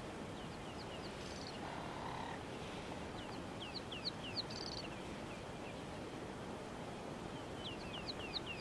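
A small bird singing the same phrase three times: a quick series of short, high whistled notes ending in a brief trill, over a steady background hiss.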